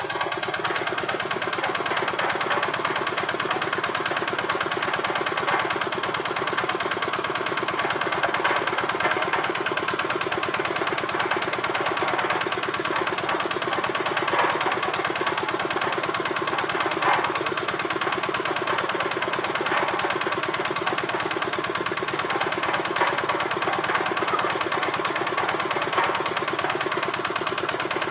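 A vehicle engine idling steadily, with an even, rapid firing rhythm.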